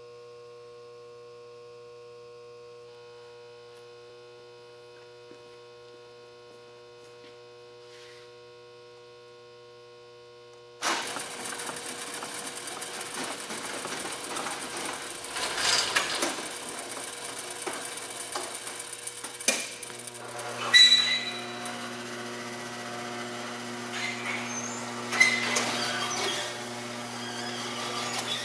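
Lantech Q-Auto roller-turntable stretch wrapper: a steady electrical hum, then about eleven seconds in the machine starts up with mechanical rattling and clicks, and a few louder knocks. Partway through, a steady motor tone joins in.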